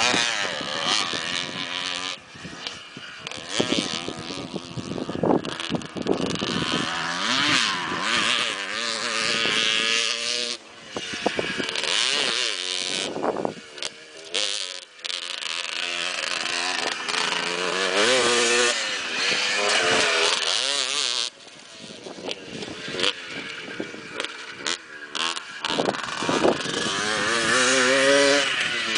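Motocross dirt bike engines revving hard and dropping back again and again as the bikes ride the track, the pitch rising and falling with each throttle change.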